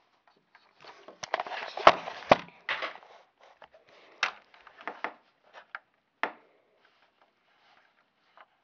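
Plastic Lego Technic parts being handled: a burst of rustling and clattering with two sharp clicks about two seconds in, then a few separate clicks.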